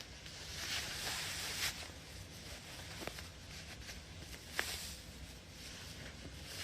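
Faint rustling and handling noise close to the microphone, with a hiss about a second in and a few small sharp clicks, the loudest two thirds of the way through.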